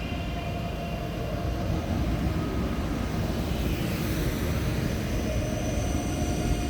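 ICE 3 (class 403) high-speed electric multiple unit running through the station: a steady low rumble with a rushing hiss that swells about four seconds in.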